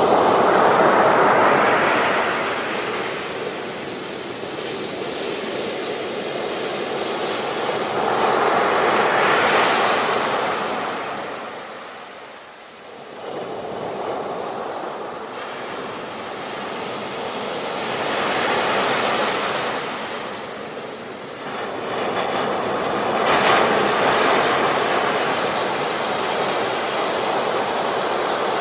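Ocean surf breaking and washing up a beach. Each wave swells and fades, about four of them, with a short lull about halfway through.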